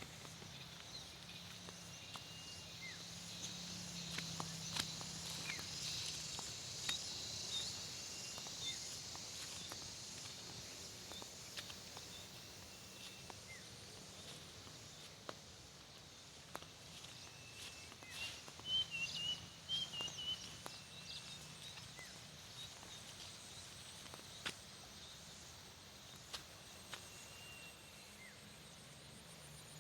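Rice-paddy nature ambience: a steady high hiss with scattered short chirps and a busier run of chirps about two-thirds of the way through, over faint, irregular clicks of footsteps on the earthen dike.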